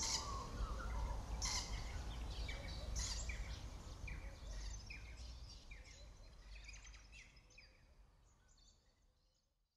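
Birds chirping in repeated short falling calls over a low steady hum, with a few sharp strokes in the first few seconds, all fading out to silence near the end.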